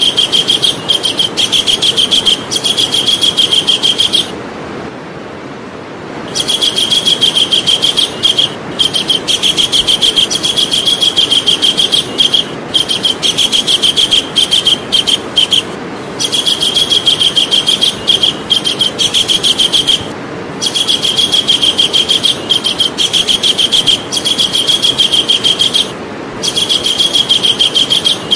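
Javan kingfisher calling in long, rapid rattling series of sharp, evenly repeated notes, broken by short gaps and one pause of about two seconds a few seconds in. A steady hiss lies underneath.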